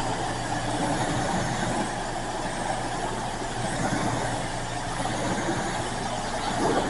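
Self-serve car wash high-pressure wand spraying water onto the car: a steady hiss, with a faint steady low hum beneath.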